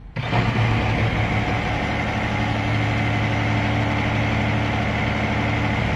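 The Mercedes-AMG One's 1.6-litre turbocharged V6 hybrid Formula 1 engine starts abruptly as Race mode is selected, then idles steadily.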